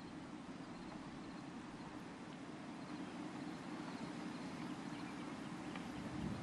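Steady low outdoor rumble and hiss that grows slowly louder, with a few faint high ticks.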